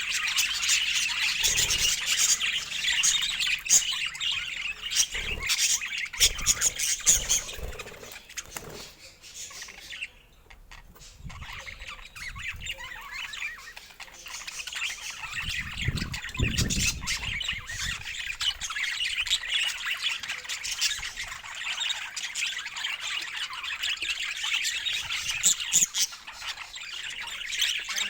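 Budgerigars chattering and squawking in a dense, busy warble. It goes quieter about a third of the way in, and there is a brief low rumble a little past halfway.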